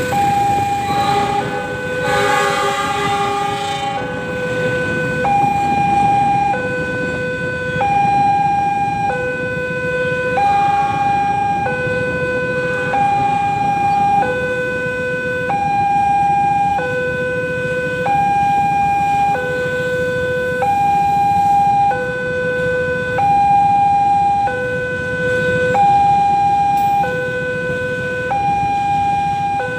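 Railway level crossing warning alarm sounding: an electronic two-tone signal switching between a high and a low tone a little under once a second, over a steady low rumble. For about the first three seconds another pitched, horn-like sound overlaps it.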